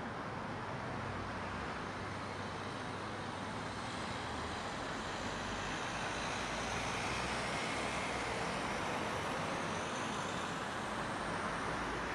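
Steady distant road-traffic noise, an even wash of sound that grows a little louder past the middle as a vehicle goes by.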